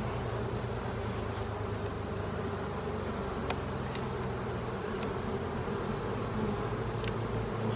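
Honeybee colony buzzing steadily around an opened hive, a low even hum. Faint short high pips repeat in runs, and there are a few light clicks.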